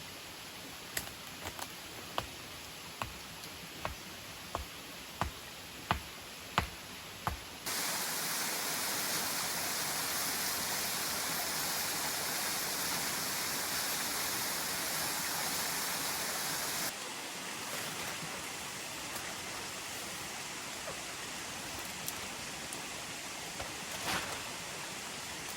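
Steady rushing of a waterfall, with about ten sharp knocks roughly a second apart over the first seven seconds. The rush jumps abruptly louder and brighter about eight seconds in, then drops back just as suddenly about nine seconds later.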